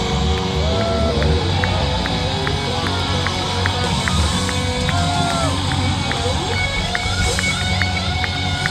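Live rock band playing loud with heavy bass, heard from the audience, with crowd noise mixed in.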